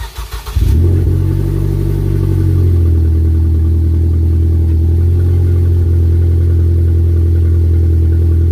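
A 2016 Ford Focus Titanium's 2.0-litre four-cylinder engine starting: a short burst of starter cranking, then it catches within the first second and runs at a raised idle before settling to a lower, steady idle about three seconds in. Its exhaust note is loud throughout.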